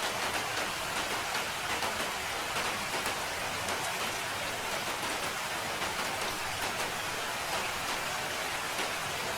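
Steady rain: an even hiss of falling drops with a fine, dense patter.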